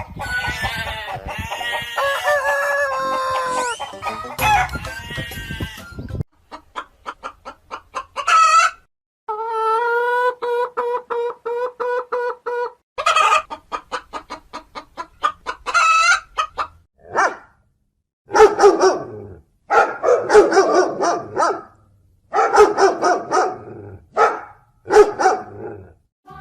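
Chickens clucking in quick runs and a rooster crowing, with one long, steady crow about ten seconds in.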